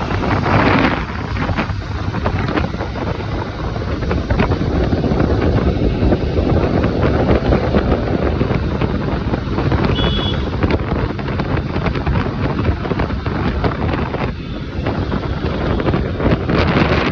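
Wind buffeting the microphone on a moving motorcycle, with engine and road noise beneath, loud and steady throughout.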